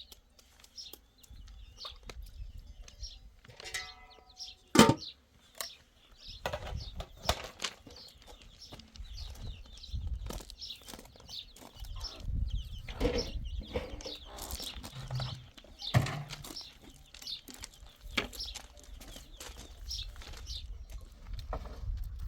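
Irregular knocks and thuds, the loudest about five seconds in, with high bird chirps and a short pitched call just before that loud knock.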